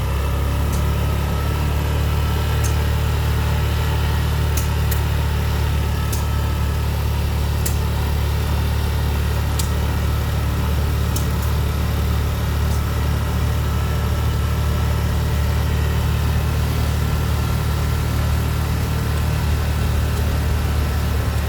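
Low, steady engine drone of the small vehicle being ridden, running at an even pace, with a few faint ticks.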